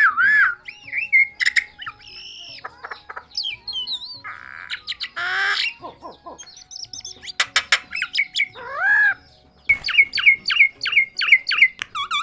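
Myna calling in a varied string of whistles, squawks and harsh chattering calls, ending in a fast run of repeated short rising notes.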